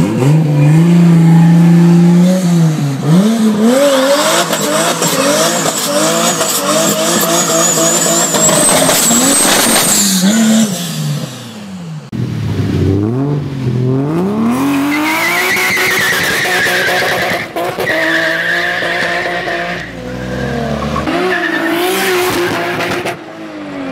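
A swapped Toyota 2JZ inline-six engine revving hard through the gears, with a high whistle rising as it pulls. About halfway through the sound cuts to another car revving with its tyres squealing in a smoky burnout.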